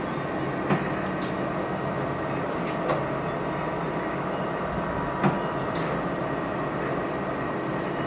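ARTAS hair-restoration robot arm running through its automated pre-case self-test motions: a steady mechanical whir with a few sharp clicks spread through it.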